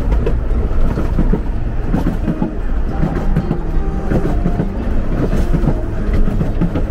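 Narrow-gauge steam railway carriage running along the line, a loud steady rumble with irregular clatter from the wheels on the rails.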